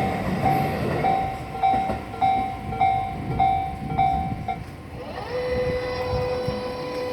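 Japanese level-crossing warning bell ringing about twice a second over the rumble of an electric train, the bell stopping about four and a half seconds in; a steady tone then rises in and holds.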